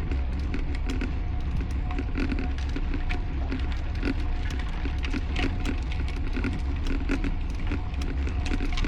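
Wind rumbling on the microphone of a camera riding along on a road bike at race speed, with steady crackling and clicking over it.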